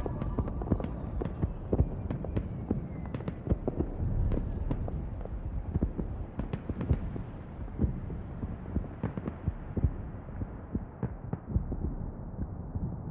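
Crackling and popping noise over a low rumble, irregular rather than in a beat, with the treble slowly fading away as if filtered down; a production effect between songs in a pop music mix.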